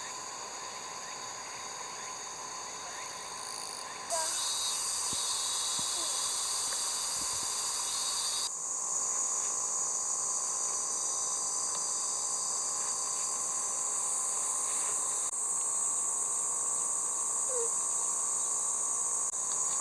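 Steady, high-pitched chorus of summer insects, with abrupt changes in its character about four, eight and fifteen seconds in.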